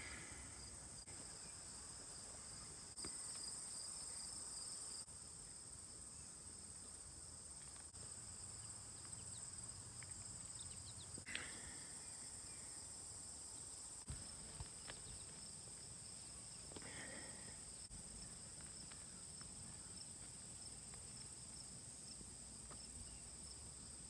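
Faint, steady, high-pitched chorus of insects, with a couple of short faint chirps partway through.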